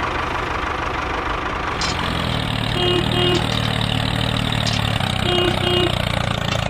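Engine sound of a miniature construction vehicle, running steadily at idle; a deeper, stronger hum comes in about two seconds in. Two pairs of short beeps sound, around three seconds in and again around five and a half seconds.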